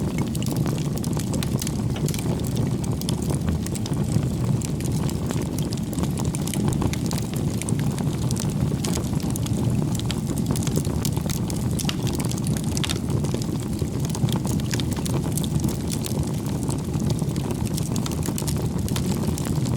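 Bonfire burning: a steady low rushing of the flames with many small crackles and pops from the burning wood.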